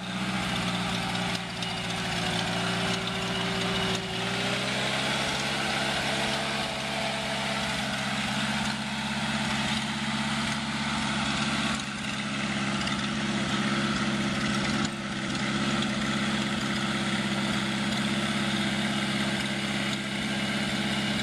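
The rear-mounted four-cylinder engine of a 1949 Allis-Chalmers Model G tractor running at idle after being started; its speed rises slightly about four to five seconds in and then holds steady.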